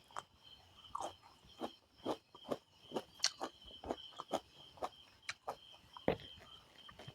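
Close-miked chewing and wet mouth clicks of someone eating, short sharp sounds about twice a second, over a steady faint high-pitched tone.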